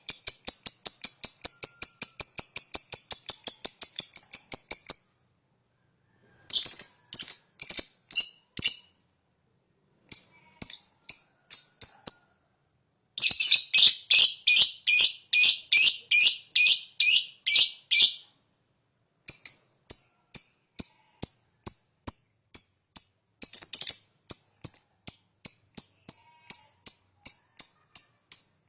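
Fighter lovebird doing its long 'ngekek' chatter: runs of rapid, high-pitched repeated chirps, about five a second, that break off for a second or so four times and start again.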